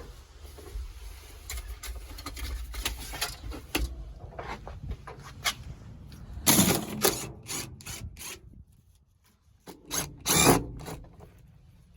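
Old interior trim, insulation and padding being pulled and scraped out of a car's stripped cabin: irregular rubbing, rustling and scraping, with two louder knocks about six and a half and ten and a half seconds in.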